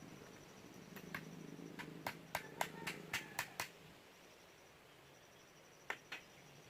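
A quick run of about ten sharp knocks, some with a short ring, then two more near the end. These are typical of work on wood with a hard tool.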